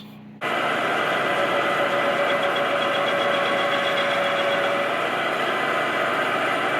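An electric power tool, likely a grinder, runs steadily while cleaning up a steel rod. It cuts in abruptly about half a second in and holds an even hum with a steady whine.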